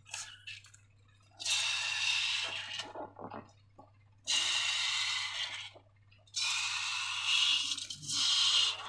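Slime being squeezed and squished, with wet squelching in three long stretches separated by short pauses. A few small clicks come first.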